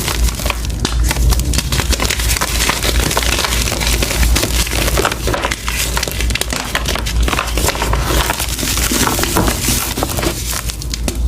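Reformed gym chalk being crushed, a dense continuous run of crunches and crackles.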